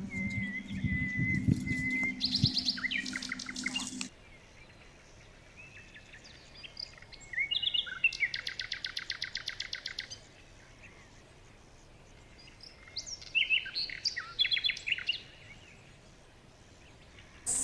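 Small birds chirping, with a low steady hum under the calls that stops suddenly about four seconds in. After that comes a rapid run of quickly repeated chirps, then a shorter cluster of chirps near the end.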